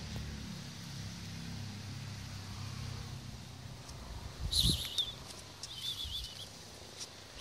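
Short, high, warbling bird chirps, once about four and a half seconds in and again a little after six seconds, over a low steady hum that fades out about four seconds in. A low thump comes with the first chirp.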